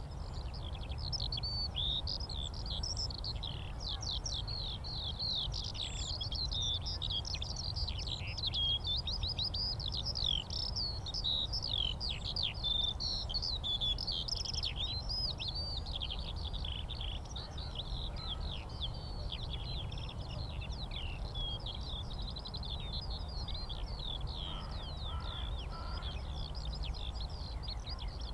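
Skylark song: a continuous, unbroken stream of rapid chirps and trills, over a steady low rumble.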